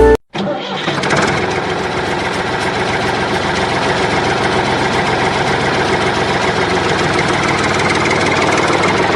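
A motor starts after a brief silence and runs steadily, with a fast, even buzzing texture.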